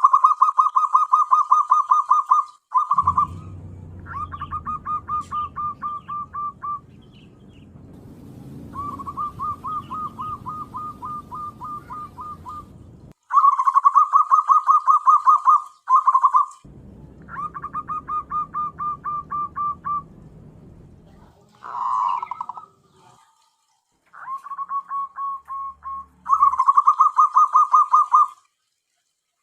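Zebra dove (perkutut) calling in rapid pulsed cooing trills, each a couple of seconds long, repeated with short gaps. A low hum lies under some of the trills.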